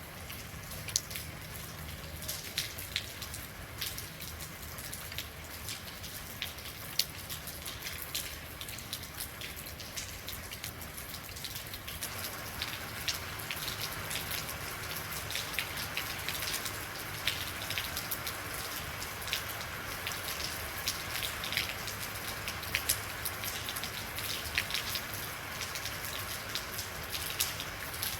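Steady rain falling, with many individual drops ticking sharply on a nearby surface; the rain becomes heavier and denser a little under halfway through.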